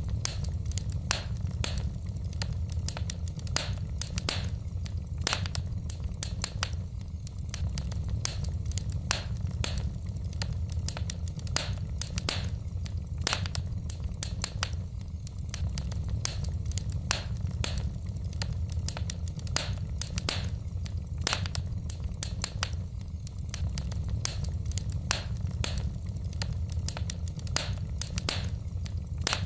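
Wood fire in a fireplace crackling: frequent sharp, irregular pops and snaps of burning logs over a steady low rumble.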